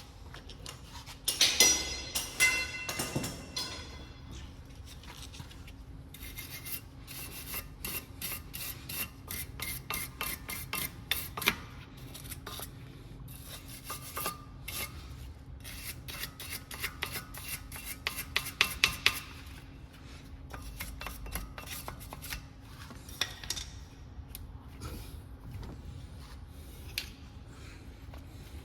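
Hand work on metal brake caliper parts: rasping and rubbing strokes mixed with many sharp metallic clicks and clinks, the loudest ringing clinks about two seconds in and again about two-thirds of the way through, over a faint steady hum.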